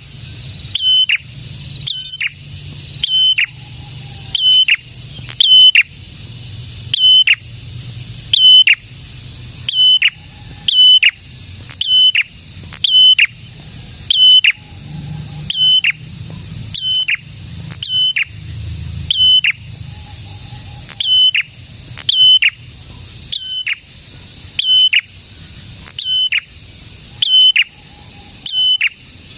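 Prinia (prenjak) singing loudly and without pause: a sharp, high note repeated in pairs about once a second, each note ending in a quick downward drop.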